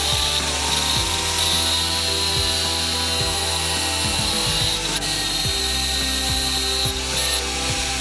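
A power tool running steadily on a workpiece, starting at the outset, over background music.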